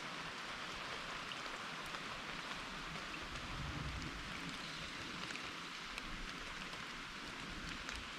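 Steady rain falling, an even hiss with scattered sharp drop ticks; a brief low rumble about halfway through.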